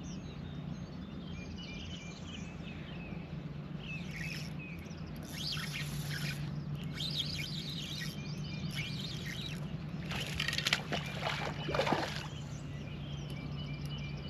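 Birds chirping over a steady low hum, with a few brief rustling noises midway and again about ten to twelve seconds in.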